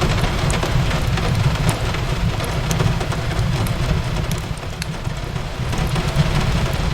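Steady rain on a window over a crackling wood fire: a continuous hiss with a low rumble underneath, dotted with scattered sharp crackles.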